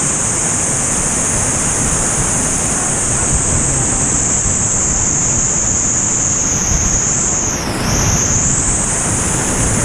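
Waterfall water rushing loudly and steadily, with a slight brief dip in level about eight seconds in.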